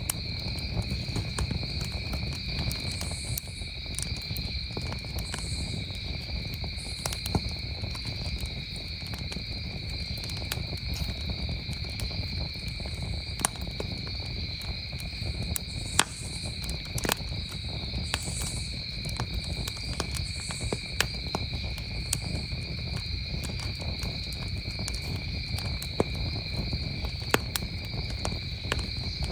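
Campfire crackling, with irregular sharp pops and snaps over a low steady rush, while crickets chirp in a continuous high drone.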